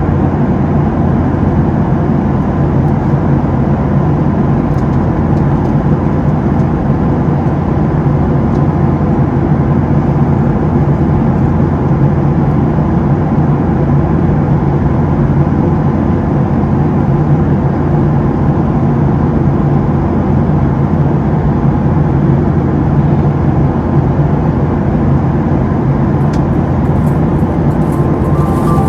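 Steady engine and airflow noise inside the cabin of a Southwest Boeing 737-700 in flight, its CFM56-7B turbofans giving a constant low drone with a steady hum.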